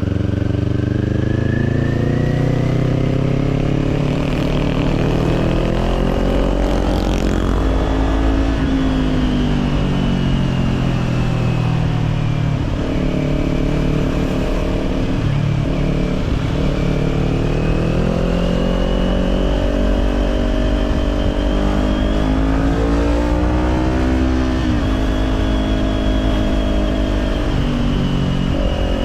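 Kawasaki Z400's parallel-twin engine through an Orion Katya slip-on exhaust while riding, its pitch climbing and falling with the throttle, with sharp drops about 12 and 24 seconds in, like gear changes.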